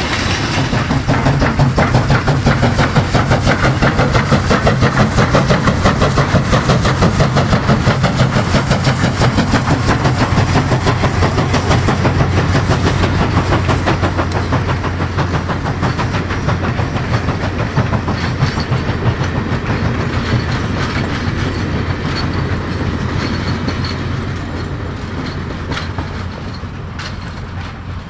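Railroad cars rolling past on the rails, with a fast, even clicking of wheels over the rail joints. The sound fades steadily over the last several seconds as the train moves away.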